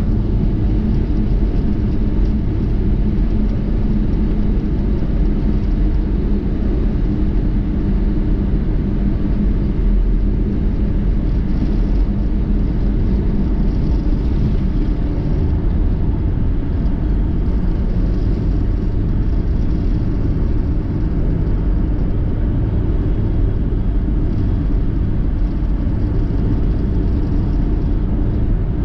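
Steady low rumble of a car driving, road and engine noise with a faint hum that holds level throughout.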